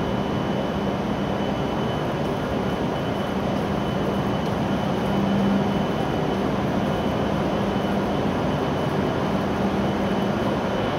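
W7 series Shinkansen train standing at the platform with its doors open, its onboard equipment giving a steady low hum with a faint high-pitched whine over it.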